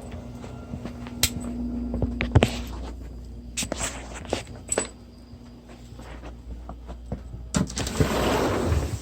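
Footsteps with scattered clicks and knocks as a person walks, and a steady hum in the first few seconds. A louder rushing noise comes in near the end.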